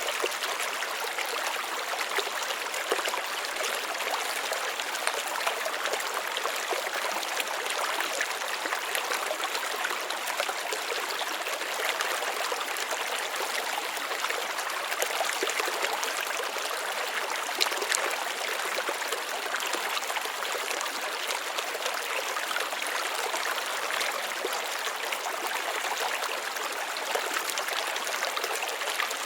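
Water running and trickling steadily, with a continuous babble and many small splashes.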